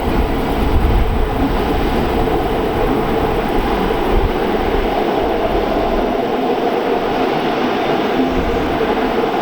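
Rhaetian Railway train running along the track: a steady rumble with rail noise, its deepest rumble fading about five seconds in.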